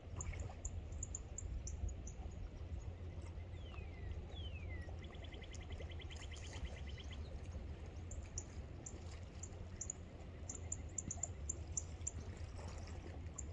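Birds calling over a low steady rumble: two falling whistles a few seconds in, then a quick, even trill lasting about two seconds.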